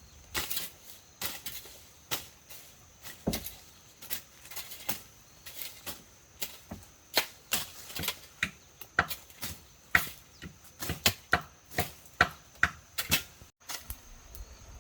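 Knife chopping: a run of sharp separate strikes, uneven and spaced out at first, then quicker, about three a second, and louder in the second half.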